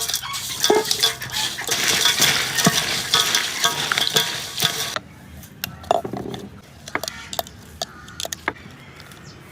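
Chili crab frying in a hot pan and being stirred, a metal utensil clinking and scraping against it. The sizzle is loud for about five seconds, then drops away sharply, leaving scattered clinks and knocks.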